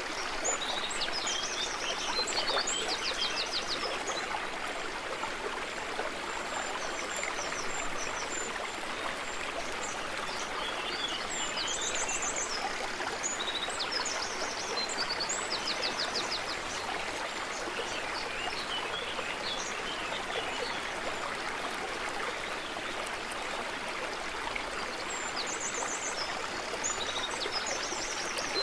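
Stream water running steadily over stones, with a songbird singing bright chirps and short trills in groups: near the start, about halfway through, and again near the end.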